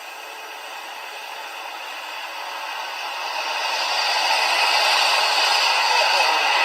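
Jet airliner's engine noise growing steadily louder as the aircraft approaches, a rushing roar with no clear tone.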